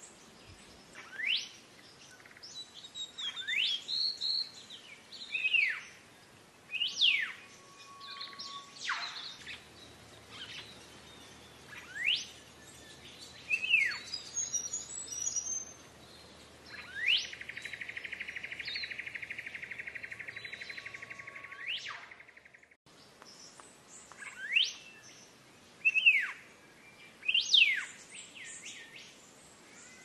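Black-faced monarch singing: clear, loud whistled notes that sweep sharply up or sharply down, one every second or two, with a steady buzzing rattle lasting about five seconds midway.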